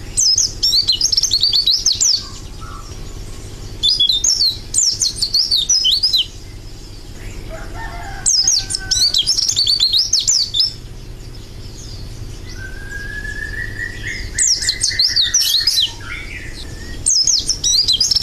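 White-eye (pleci) singing in repeated phrases of rapid, high twittering, each about two seconds long with short pauses between. A lower, drawn-out rising whistle runs under the song about two-thirds of the way through, over a steady low hum.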